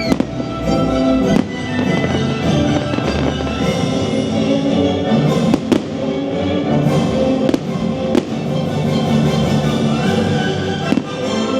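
Fireworks show soundtrack: orchestral holiday music playing loudly, with a handful of sharp fireworks bangs over it, two close together about halfway through.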